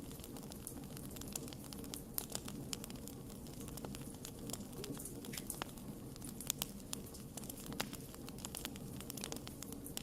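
Wood fire crackling steadily under a low rumble of burning, with irregular sharp pops and snaps, a few louder ones about two, six and a half and eight seconds in.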